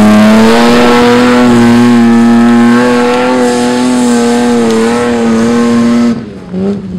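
Toyota Land Cruiser VX80's engine and exhaust held at high revs under load while climbing rough ground, a strong steady note with slight wavers. About six seconds in the revs drop away sharply, with one brief blip of throttle just after.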